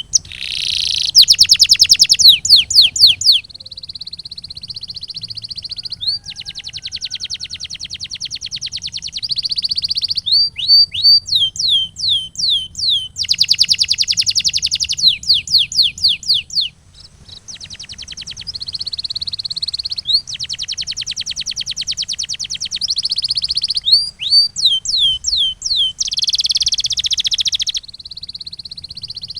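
Canary singing: phrases of quick, downward-sweeping whistled notes alternate with long, very fast rolling trills, each trill held for a few seconds. The loudest parts are the swept-note runs at the start and in the middle.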